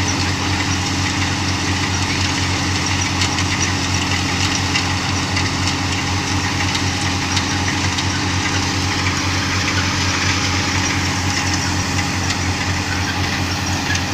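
Tractor diesel engine running steadily at a constant speed, driving a thresher, with a steady mechanical rattle and hiss over the engine note.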